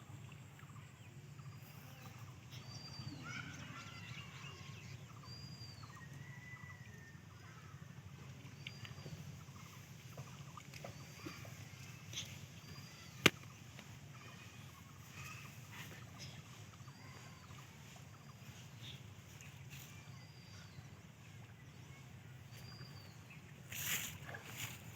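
Quiet outdoor ambience with a bird's short high chirp repeated about every second and a half, and a single sharp click about halfway through.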